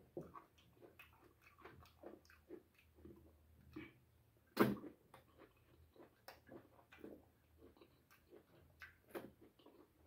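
Close-miked chewing and lip-smacking of a person eating boiled cabbage and goat-head meat by hand: soft wet clicks several times a second, with one louder click about halfway through.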